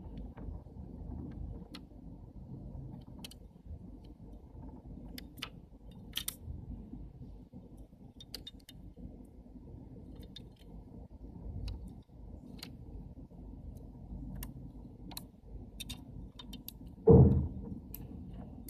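Small metal and plastic lens parts clicking and clinking as they are handled and fitted, over a steady low rumble. One louder thump comes near the end.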